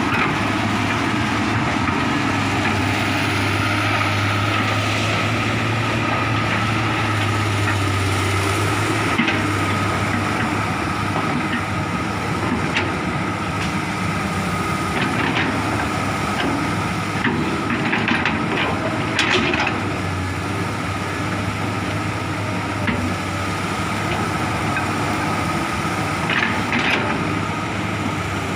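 Komatsu hydraulic excavator's diesel engine running steadily under working load, with scattered cracks and knocks of wood as timber and brush are pushed and gripped.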